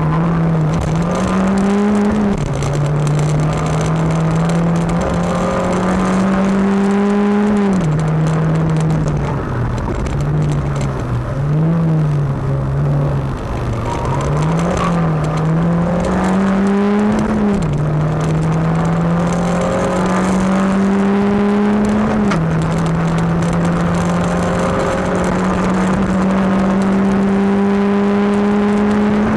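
Rally car engine at full race pace, heard from inside the car: the note climbs slowly through each gear and drops back at every upshift, with a stretch of shorter rises and falls in the middle as the driver lifts and changes gear more often.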